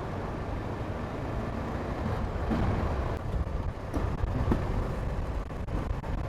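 Steady rumble of a motorcycle on the move: engine, road and wind noise, with a couple of faint clicks about four seconds in.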